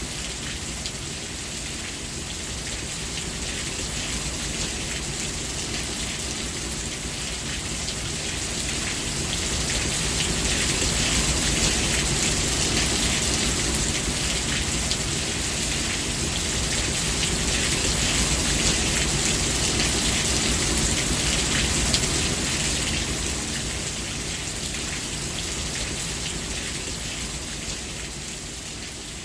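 Steady rain falling on surfaces, a dense hiss of drops that swells louder through the middle and eases off again near the end.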